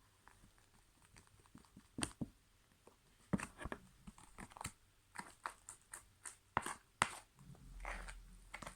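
Homemade slime being stirred and scooped with a spoon as it thickens: irregular sticky clicks, pops and squelches, with a dull low bump near the end.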